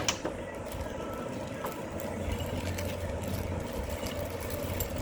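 Steady low, engine-like hum in the background, with a couple of light clicks, one right at the start and a fainter one under two seconds in.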